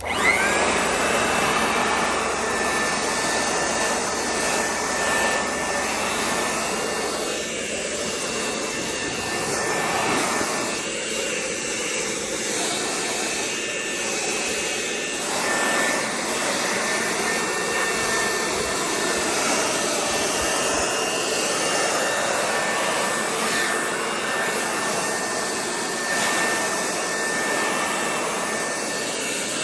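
An electric blower motor switching on and spinning up with a short rising whine, then running steadily with a loud rush of air and a steady high whine, used to clear snow.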